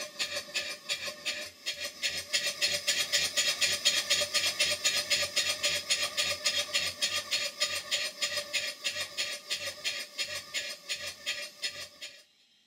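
Hayward Tyler duplex steam boiler feed pump running, its twin cylinders making an even beat of about four strokes a second. It stops suddenly near the end.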